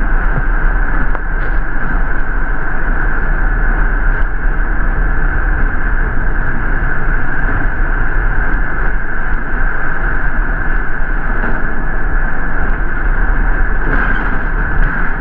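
Inside a moving city transit bus: steady engine and road rumble with a constant high-pitched hum, and a few faint rattles and ticks.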